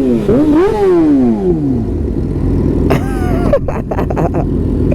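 Sportbike engine revving hard: its pitch climbs, then slides down over about a second and a half, and settles into a steady low rumble. A short, higher rev rises and falls about three seconds in.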